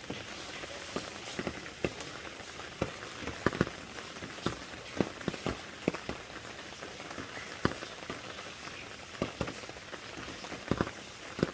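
Rain falling steadily, with heavy drops landing one by one on a hard surface as irregular sharp ticks over the hiss.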